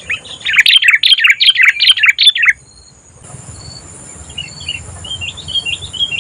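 Sooty-headed bulbul song: a loud run of quick, warbling notes for about two and a half seconds that cuts off suddenly. Softer chirps follow a second later. A steady high insect buzz runs behind.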